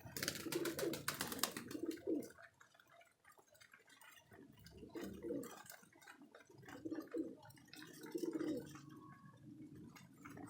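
Domestic pigeons cooing repeatedly in the loft, low rolling coos overlapping one another. A quick run of sharp clicks sounds in the first second and a half.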